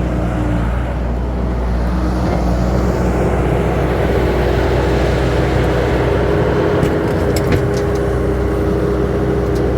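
Engine of the earthmoving machine loading a dump truck, running steadily under load with a steady whine above the rumble; a few light knocks near the end.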